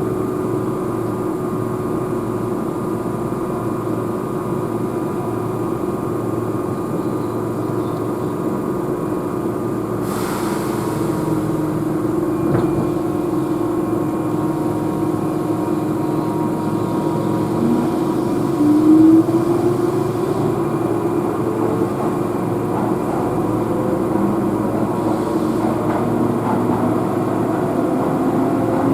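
Keihan electric train running, heard inside the car: a steady drone of wheels and running gear with electric motor whine that glides upward in pitch from a little past the middle. There is a short hiss about ten seconds in.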